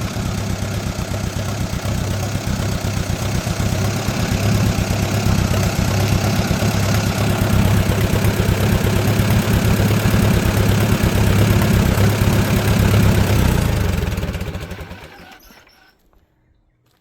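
Lawn mower engine running steadily, then fading out near the end.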